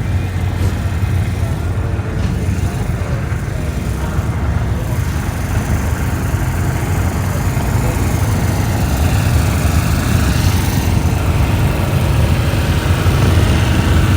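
Car engine idling with a steady, deep low rumble that grows a little louder near the end.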